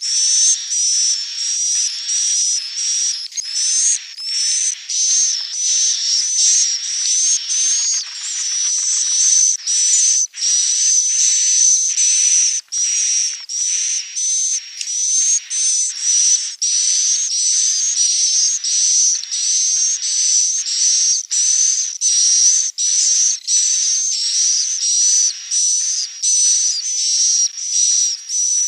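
Recorded swiftlet calls of the kind played to lure swiftlets to nest: a dense, high-pitched twittering chorus with a thin steady whistle above it. It comes in short repeating phrases broken by brief gaps, about one a second.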